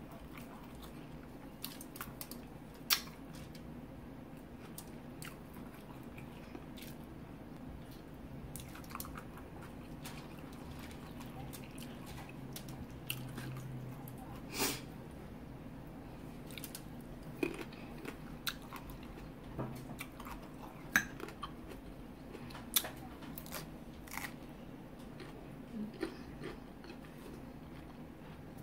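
A person chewing and biting chicken wings and salad close to the microphone, with many short, sharp clicks and crunches scattered through it over a low, steady hum.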